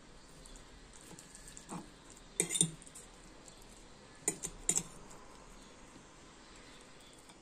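Metal fork clinking and tapping against a ceramic plate while cutting into pieces of baked vegetable pie: a quick cluster of clinks about two and a half seconds in, then three more a couple of seconds later.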